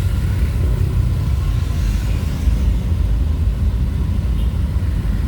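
Steady low rumble of a vehicle driving along the road: engine and road noise.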